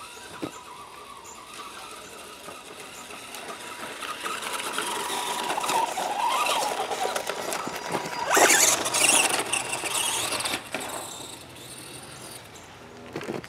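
Electric motor and drivetrain of an ECX Torment 1/10 scale 2WD short course RC truck whining under throttle, the pitch rising and falling as it speeds up and slows. The sound is loudest and harshest for about two seconds from about eight seconds in.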